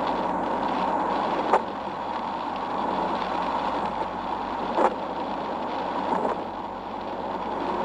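Steady road and engine noise from a moving car, with two brief sharp clicks about a second and a half in and near five seconds in.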